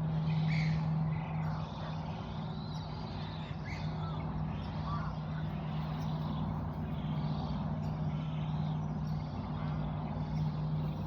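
A steady low mechanical hum, typical of a distant engine, runs under an even background hiss, with a few faint bird chirps scattered over it.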